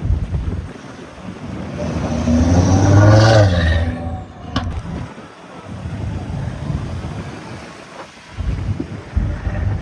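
A car engine accelerating as the car passes, rising in pitch and growing loud about three seconds in, then fading away. A lower engine rumble goes on after it.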